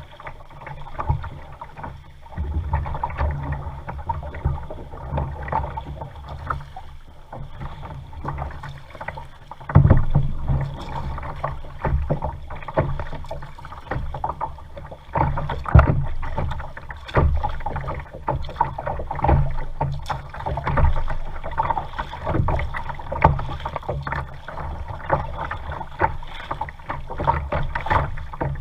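A kayak being paddled: irregular paddle splashes and knocks against the hull, over a low rumble.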